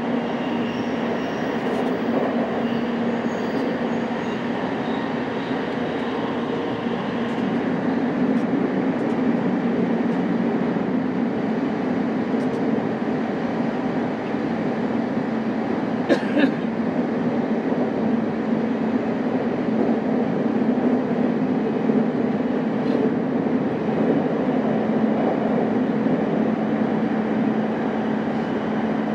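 Cabin running sound of a JR East E233 series 5000 electric multiple unit under way: steady wheel-and-rail rumble with a constant motor hum. Faint high tones fade out over the first several seconds, and one sharp click sounds about halfway.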